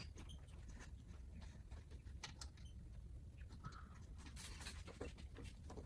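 Faint, scattered small clicks and taps of plastic trim clips and parts being handled, over a low steady hum.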